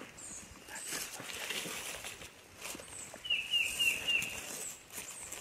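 Spring woodland sounds: small birds chirping, and about three and a half seconds in a quick run of four short, falling calls, with some scattered rustling.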